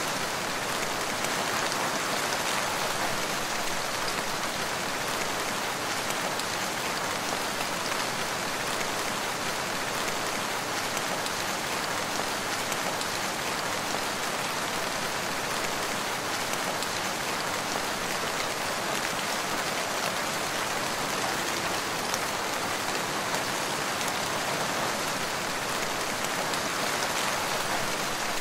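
Steady rain falling in a forest, a dense even hiss of drops with fine pattering throughout.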